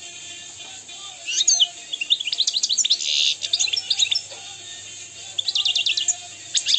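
European goldfinch singing: bursts of quick twittering trills and chirps that start about a second in and come in several runs, with short gaps between them.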